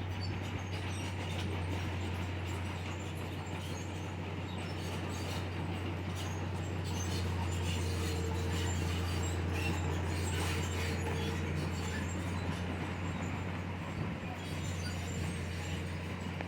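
Heavy diesel earthmoving machinery running steadily with a low engine drone and light metallic clicking over it; a faint whine joins in the middle.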